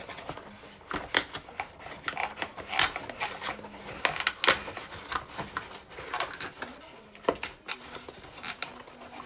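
Irregular clicks, taps and short rustles of packaging being handled as a holder from a coffee-machine gift box is unpacked.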